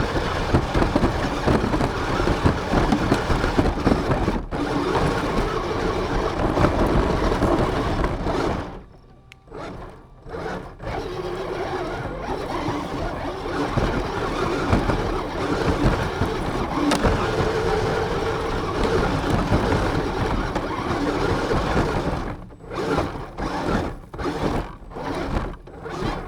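RC car driving, heard through the camera mounted on it: motor, drivetrain and terrain noise, a steady loud rush that drops away for a second or two about nine seconds in and cuts in and out several times near the end as the throttle is let off and reapplied.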